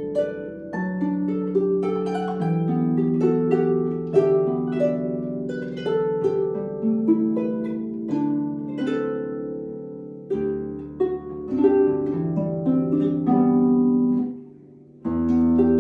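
Solo harp playing: plucked melody notes and chords ringing over held bass notes. Near the end the sound falls away for under a second, then the playing comes back in.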